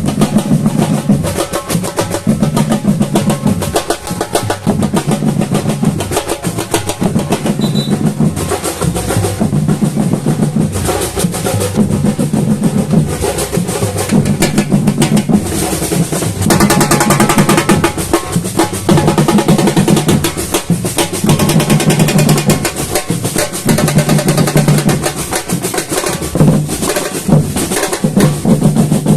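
Samba batucada drum ensemble playing: deep bass drums beat a steady repeating pattern under dense, fast snare and other percussion.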